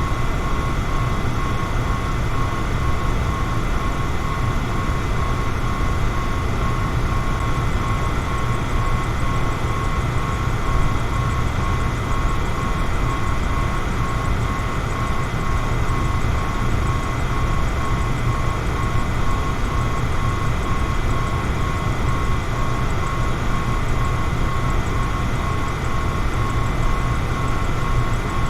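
Electric fan running steadily: a constant whir with a low hum and a faint steady tone above it.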